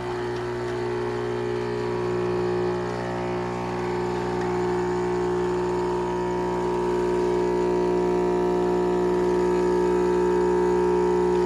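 Philips 3200 LatteGo super-automatic espresso machine's pump running with a steady hum while it makes a drink, slowly getting a little louder.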